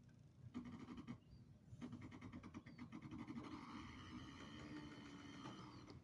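Faint background: a low steady engine hum, like a distant vehicle, swelling a little through the middle, with a few short bird chirps over it.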